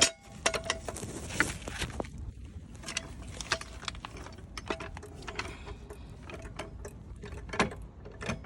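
Irregular metallic clicks and knocks from a trolley jack being moved and set under the car, some with a short ringing note, over a low steady hum.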